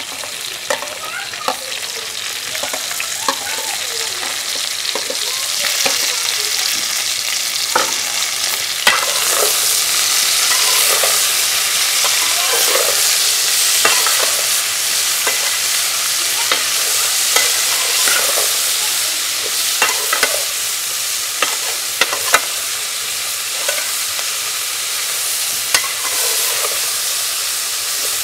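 Bitter gourd, onion and tomato frying in a metal karahi, sizzling steadily while a slotted metal spatula stirs and clicks against the pan. The sizzle grows louder several seconds in.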